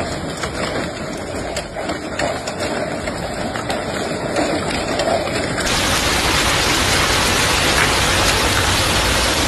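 Heavy storm rain pouring, a dense hiss with a few faint taps in the first half; about halfway through it cuts to a louder, steadier downpour.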